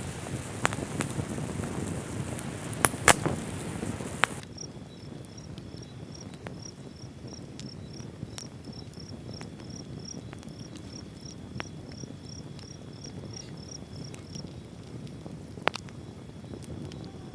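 Steady rain hiss with a few sharp pops, cutting off abruptly about four seconds in. Then a quieter stretch with an insect chirping about three times a second over a faint steady high whine, and a couple of isolated clicks.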